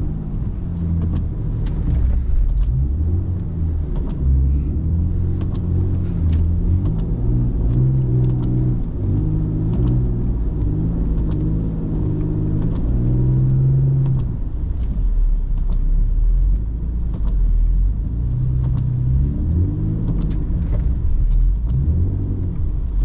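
BMW E39 engine running as the car is driven, its pitch stepping up and falling back with throttle and gear changes, with scattered faint clicks over it.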